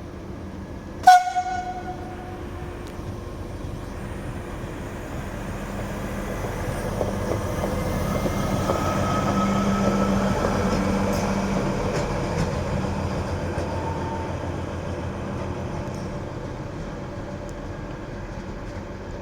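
A train passing through the station: its running noise swells to a peak about halfway through and then fades. About a second in, a brief, sharp horn blast with a ringing tone is the loudest sound.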